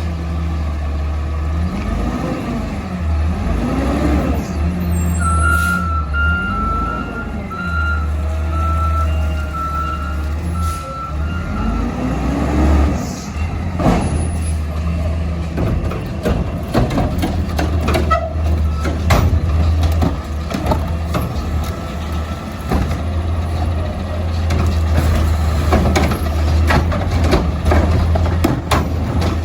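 Diesel engine of a Peterbilt 520 garbage truck running loud, revving up and down again and again during the first half. A reversing alarm beeps from about five seconds in to about eleven seconds. Through the second half come many sharp knocks and clanks.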